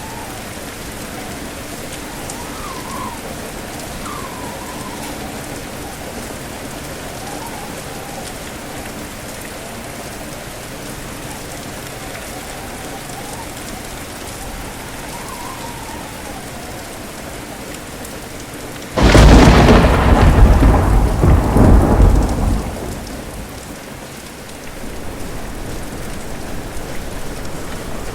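Steady heavy rain with wind whistling in wavering gusts, then, about two-thirds of the way through, a sudden loud thunderclap that cracks and rumbles for about three seconds before dying away into the rain.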